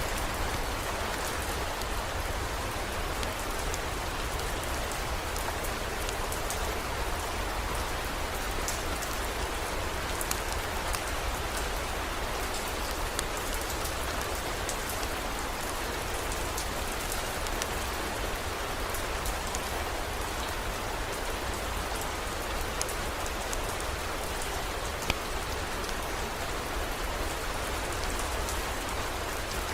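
Heavy rain falling steadily, with scattered sharp drop ticks over a low, even rumble.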